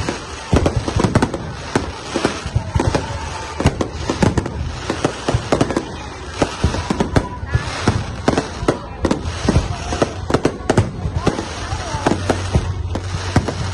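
Fireworks going off in a rapid, continuous barrage of bangs and crackling pops, many per second.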